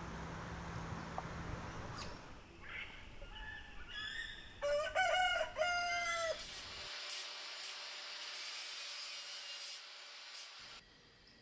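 Rooster crowing once, a long rising-then-falling call about four and a half seconds in, with a few shorter clucking notes just before it, over a steady high hiss.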